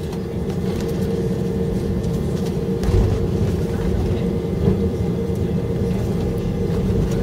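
Cabin noise of an Airbus A319 airliner taxiing: a steady hum with a constant mid-pitched tone over a low rumble, and a heavier bump about three seconds in.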